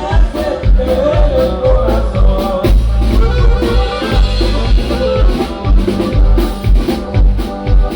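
A Latin regional band playing an upbeat song, with a drum kit and bass keeping a steady beat under a melodic lead line.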